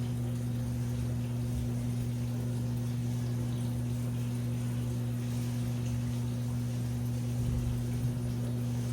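Washing machine running, with a steady low hum and an uneven low rumble underneath.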